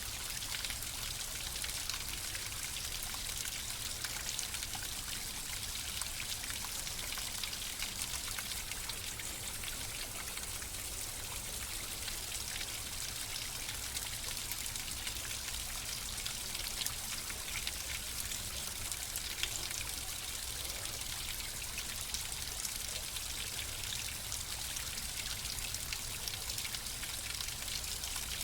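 Flowing water running steadily, a continuous rushing hiss dotted with many small droplet splashes and trickles.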